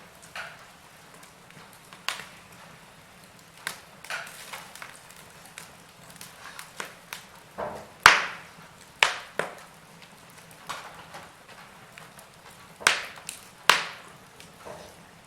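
Wood fire crackling: burning logs giving irregular sharp pops and snaps over a soft hiss, the loudest pop about eight seconds in and two more near the end.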